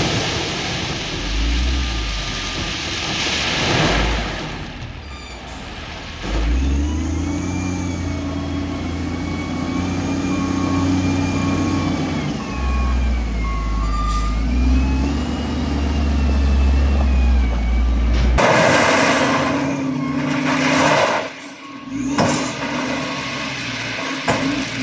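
Heavy diesel earthmoving machinery running under work: a steady low engine note with a higher whine that rises and falls. About eighteen seconds in the sound changes abruptly to a louder rushing noise.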